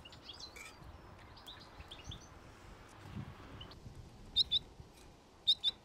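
Small birds chirping over faint outdoor background noise: scattered short, high chirps, then two louder pairs of quick double chirps past the middle and near the end.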